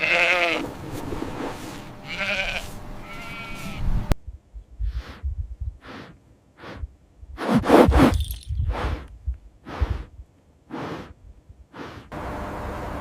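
Bleating: three wavering, pitched calls in the first four seconds. Then a run of short, pitchless bursts about one a second, the loudest around the middle, and a steady hiss near the end.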